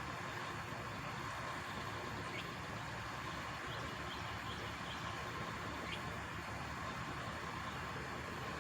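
Steady low engine rumble and hum of an idling truck, with a few faint short bird chirps.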